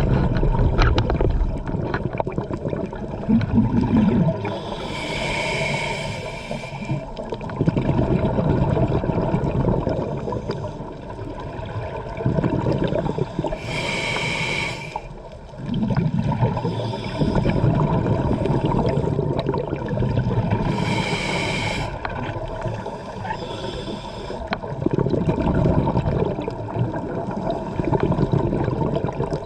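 Scuba diver breathing through a regulator underwater: a short hissing inhale through the demand valve, then a long low gurgle of exhaled bubbles, repeating about every seven to eight seconds.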